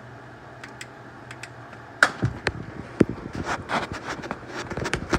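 A steady low hum, then irregular sharp clicks and clanks starting about two seconds in, like hand tools being picked up and handled under a car.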